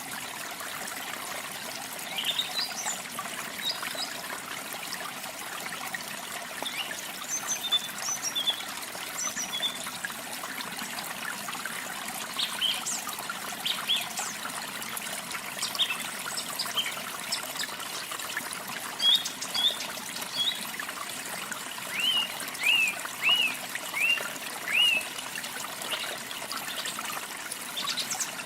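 Steady rush of falling water with small birds singing over it: scattered high chirps and trills, and a run of five quick down-slurred whistles about three-quarters of the way through.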